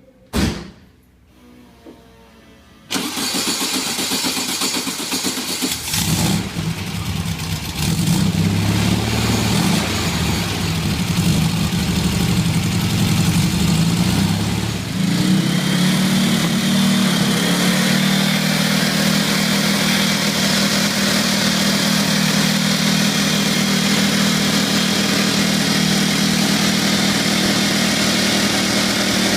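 Turbocharged 1776cc air-cooled VW Type 1 engine being cranked and starting. After a short knock near the start, the engine catches about six seconds in, revs up and down unevenly for several seconds, then settles to a steady idle.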